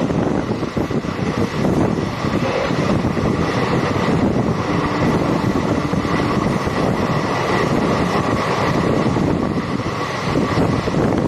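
Intercity express passenger train running at speed: a steady rushing rumble, with wind buffeting the microphone.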